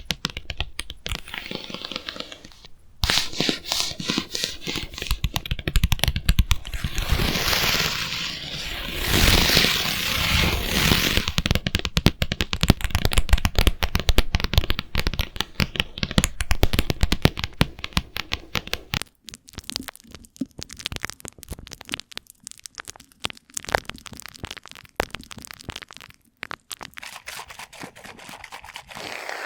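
Rapid, dense crackling and scratching clicks close to a microphone, as in ASMR tapping or scratching. The clicks thin out to sparser bursts with short gaps in the last third.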